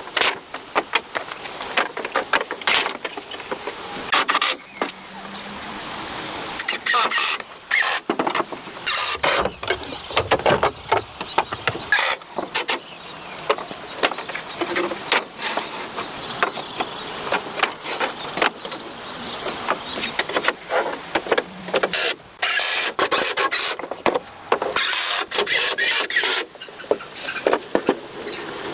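Irregular knocks, clicks and scraping noises, coming in clusters with short gaps.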